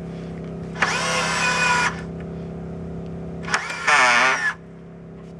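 Power drill or screw gun running in two bursts of about a second each, the first near the start and the second about three and a half seconds in, its pitch wavering under load. A steady mechanical hum runs underneath.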